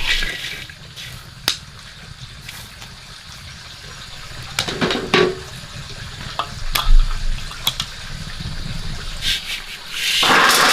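Water splashing and pouring, with scattered clicks and knocks, a louder thump about seven seconds in, and a rush of water near the end.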